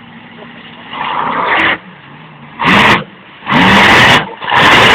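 Monster truck engine revved in short, loud bursts, three blips in quick succession after a lighter one, each so loud it overloads the microphone.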